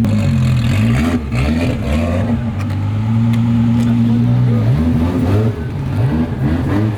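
A car engine revving in quick blips, held at a steady rev for a second or two, then blipped repeatedly again.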